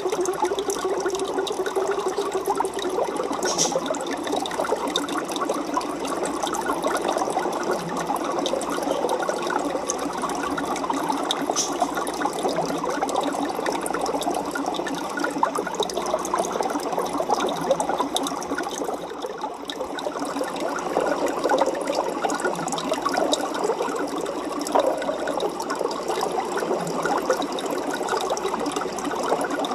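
Aquarium water trickling and bubbling steadily: a dense, continuous fine crackle.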